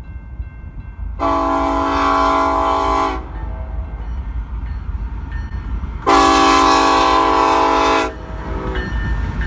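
Locomotive air horn sounding two long blasts, each about two seconds, about three seconds apart, over a low rumble.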